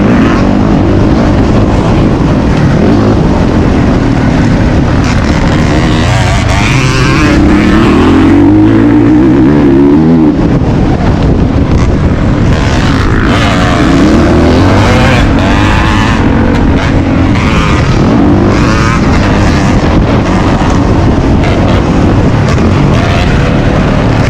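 Motocross dirt bike engine revving hard, its pitch climbing and dropping again and again as the throttle opens and closes through the ride.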